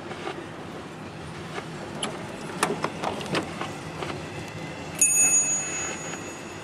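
Train rolling through the yard with scattered sharp clicks from the wheels and rails. About five seconds in, a sudden high metallic squeal starts and rings for about a second and a half before fading; it is the loudest sound here.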